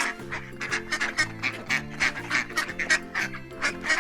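Duck quacking in a rapid, steady run of short quacks, several a second, over background music.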